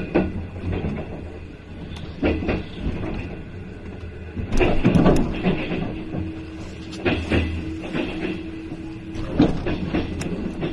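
Locomotive-hauled passenger train running, heard from inside a coach: a steady rumble with the wheels clacking over track joints in irregular clusters of knocks. A steady hum comes in about halfway through.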